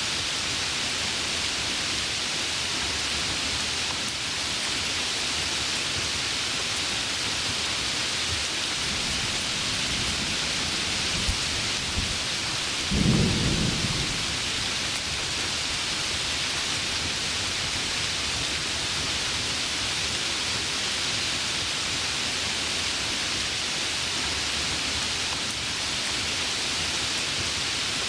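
Heavy rain falling steadily in an even hiss, with a short low rumble of thunder about halfway through.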